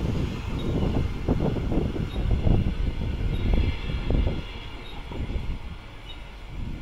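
Queensland Rail NGR electric train running over the rails and pulling away, its low rumble and wheel knocks fading after about four seconds.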